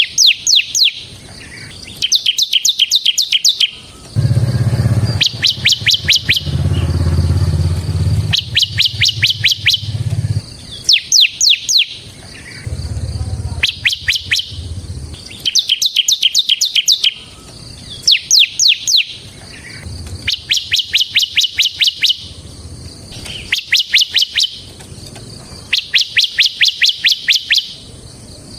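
Bar-winged prinia (ciblek) singing persistently: short, rapid phrases of sharp, high chipping notes, repeated about every two seconds. A low rumble runs underneath at times.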